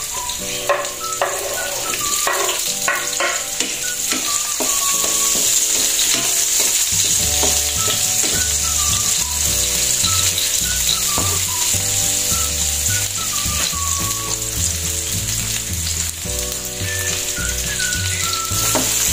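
Sliced red onions tipped into hot oil with browned garlic and ginger, sizzling steadily in a wok, with a few knocks early on as they land and are stirred with a wooden spatula.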